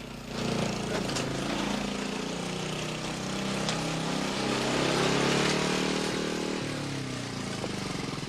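A motor vehicle engine running, its pitch rising toward the middle and easing off after about six and a half seconds.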